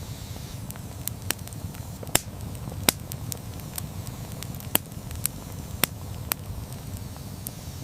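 Wood campfire crackling, with sharp irregular pops and snaps of burning wood over a low steady rumble.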